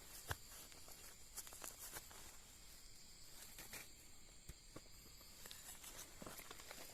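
Footsteps on dry leaf litter and twigs: scattered soft crackles and snaps, one sharper snap shortly after the start, over a steady high insect drone.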